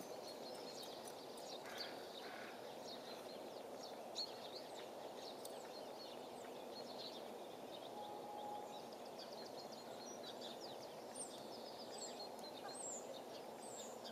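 Small birds chirping over and over in short high calls, over a steady outdoor background hiss.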